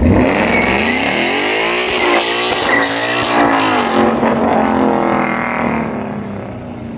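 A vehicle engine revving hard. It starts suddenly and its pitch climbs and falls several times, with a hiss of tire noise over it, typical of a burnout.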